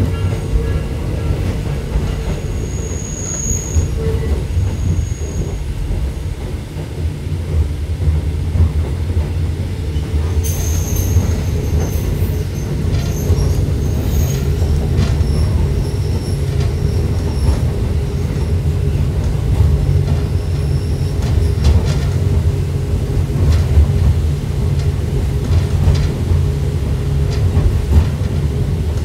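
Hakone Tozan Railway electric train running down its steep mountain line: a steady low rumble of motors and wheels on the rails. High-pitched wheel squeal comes in briefly about three seconds in and then on and off from about ten seconds in, typical of the line's very tight curves.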